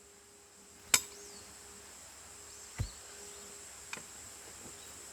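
Splitting firewood by hand: one sharp axe strike on a log about a second in, then two quieter wooden knocks, the second fainter, as split pieces are handled or fall.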